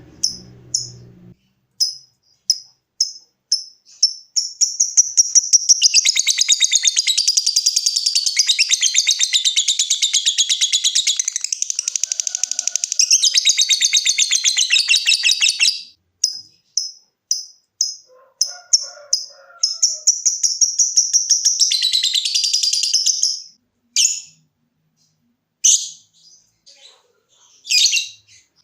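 A lovebird calling. It gives a run of short, sharp chirps about two a second (the 'ngetik' call), then breaks into a long, rapid chattering trill (the 'ngekek') lasting about eleven seconds. After more chirps it gives a second, shorter trill, then scattered calls near the end.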